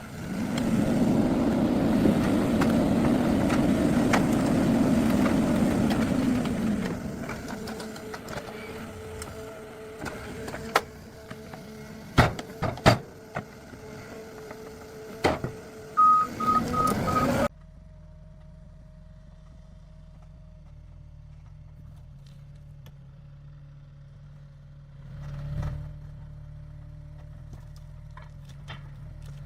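Heavy forestry machinery working: loud engine noise for the first several seconds, then scattered sharp knocks and a few short beeps. The sound then cuts off suddenly to a quiet, steady machine hum that swells briefly near the end.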